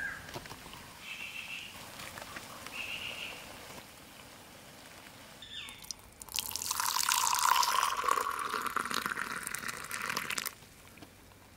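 Water pouring in a steady stream for about four seconds, starting past the middle and stopping abruptly.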